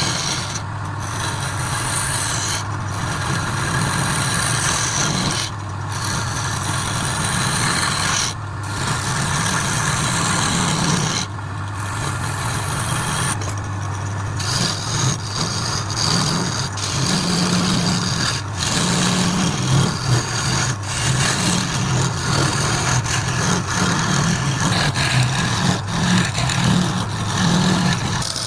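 Wood lathe running with a turning tool cutting the spinning wood: a steady motor hum under a rough, scraping hiss that breaks off briefly every few seconds.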